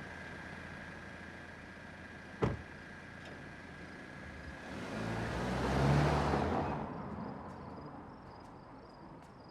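A car drives away, its engine and tyre noise swelling to a peak about halfway through and then fading out. A sharp click comes a couple of seconds in, and faint regular cricket chirps start near the end.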